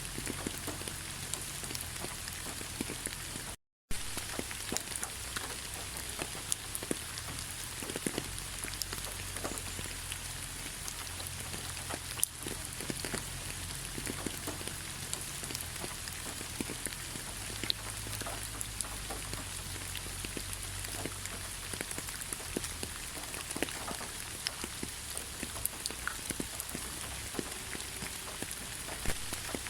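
Steady rain falling in a forest: an even hiss with many separate drop ticks. A moment's dropout to silence comes about four seconds in.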